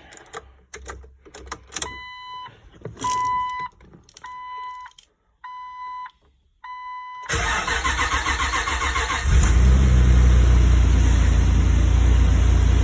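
A few clicks, then five evenly spaced dashboard chime beeps about a second apart. The starter then cranks a freshly installed engine for about two seconds before it fires and settles into a steady idle: the engine's first start.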